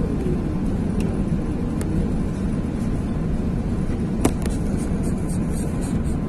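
Steady rumbling cabin noise of an Airbus A380 in flight, with a whine falling in pitch over the first second or so. A few sharp clicks come through, the loudest about four seconds in.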